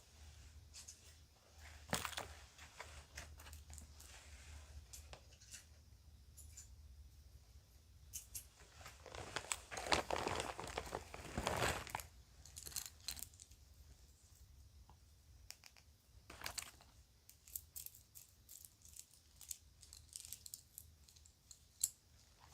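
Children's jewelry and a crinkly bag being handled: scattered light clicks and taps, with a burst of crinkling from about nine to twelve seconds in.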